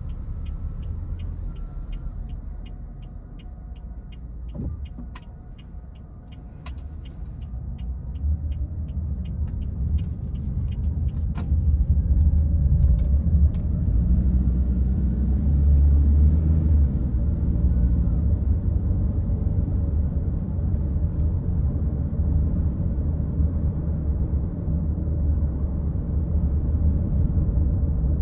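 Car driving, a steady low rumble of engine and road noise that grows louder from about eight seconds in. A fast, regular ticking, about two or three a second, runs through the first several seconds.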